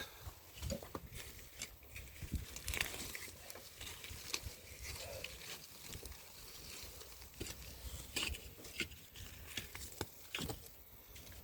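Irregular scraping, crunching and rustling of garden soil being loosened and weeds being pulled out by the roots, with scattered small knocks.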